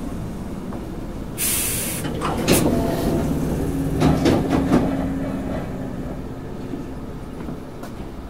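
Interior of a Hankyu 6300 series train car as the train brakes for a station: running rumble, a short burst of air hiss about a second and a half in, then a few clunks and brief squeals before the noise dies down as it comes to rest.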